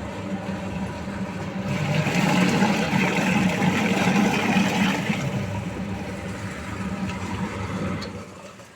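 A small electric motor running steadily with a hum, dying away near the end.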